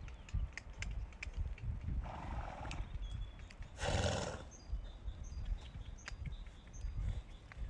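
A horse making two short, breathy sounds about two and four seconds in, with faint scattered knocks between them.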